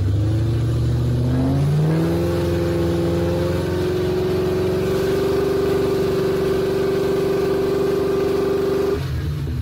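2003 Ford Mustang SVT Cobra's supercharged 4.6-litre V8 revved from idle up to about 3,000 rpm over the first two seconds, held steady there, then dropped back near the end. The engine is held at that speed to check the ignition timing for drift (ignition hardware latency).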